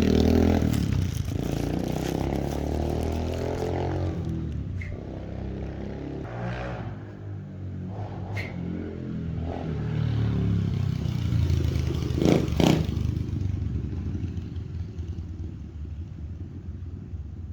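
X-Pro Storm 125cc four-stroke dirt bike (Zongshen engine) being ridden, its engine revving up and down as it goes through the gears. It gets louder about two-thirds of the way through, then fades as it moves away.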